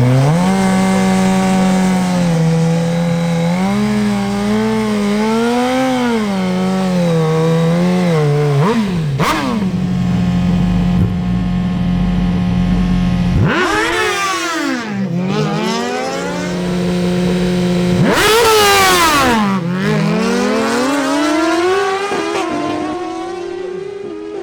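Suzuki GSX-R1000 sport bikes' inline-four engines revving, held at steady high revs with small wavers. Twice the revs drop deep and climb again, the second time with a loud rush of noise.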